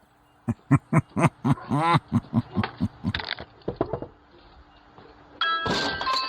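Husky crying dramatically while getting a shot: a rapid run of short yelping whines, about four a second, with one drawn-out rising-and-falling howl among them. Near the end a ringing sound effect of several steady tones comes in.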